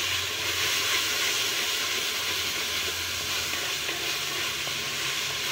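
Minced chicken and onions sizzling steadily in hot oil in a metal pot while being stirred with a spatula. The keema is being fried until the oil separates from it.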